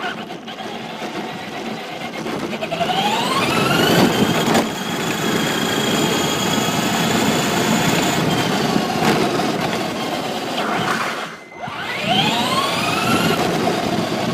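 Electric motor of a Traxxas Slash Raptor SVT 2WD RC truck whining under throttle, over a rough noise of tyres and chassis on pavement. The whine rises in pitch as the truck speeds up, holds high, cuts out briefly when the throttle is let off near the end, then rises again.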